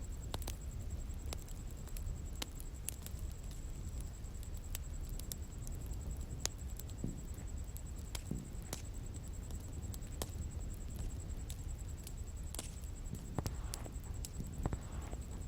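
Bonfire crackling: irregular sharp pops and snaps from the burning wood over a low, steady rumble of the flames.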